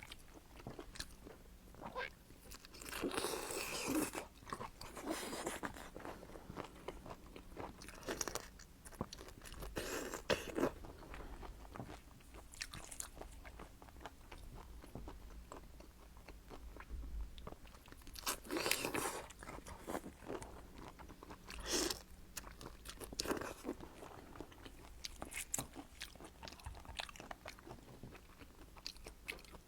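Seafood being eaten: crunching bites and chewing come in irregular bursts, the loudest about 3 to 5 seconds in, around 10 and 19 seconds, and near 22 seconds, with quieter chewing between them.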